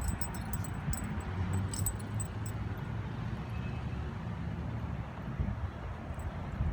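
Steady low rumble of road traffic, with light metallic jingling in the first couple of seconds and once more near the end.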